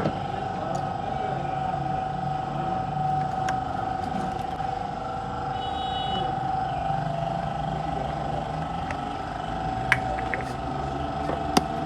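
Steady mechanical hum holding one pitch, with two sharp clicks near the end.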